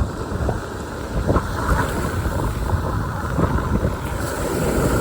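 Steady, dense rumbling noise of wind on the microphone.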